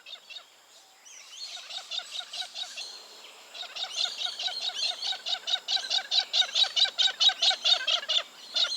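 Galahs calling: a fast run of short, screechy calls, about four or five a second, faint at first and louder from about three and a half seconds in.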